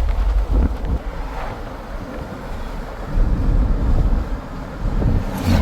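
Wind buffeting the microphone in a loud, uneven low rumble, dipping for a couple of seconds midway, with a sharp knock near the end.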